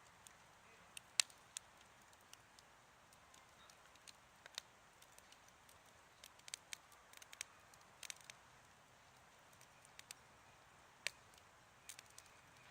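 Wood campfire crackling quietly: irregular sharp pops and snaps of burning wood over a faint hiss, the loudest pop about a second in and another near the end.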